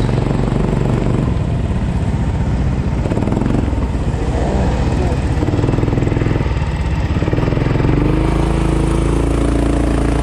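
Kart engine running, its pitch rising and falling with the throttle, then holding a steadier note about eight seconds in.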